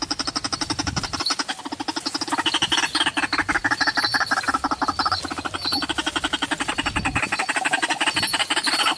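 White-breasted waterhen calling: a fast, unbroken run of harsh, croaking notes repeated many times a second.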